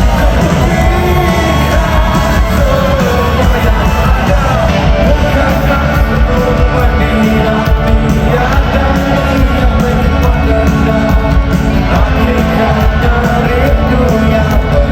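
Live rock band playing loudly, with a singer, in a large hall, with shouts and yells from the crowd.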